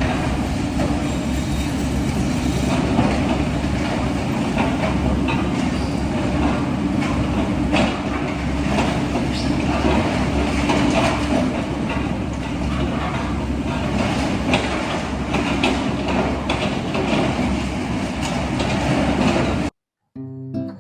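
Heavy construction machinery at work: a steady diesel rumble with frequent metallic clanks and rattles. Near the end it cuts off suddenly and a short plucked-string tune begins.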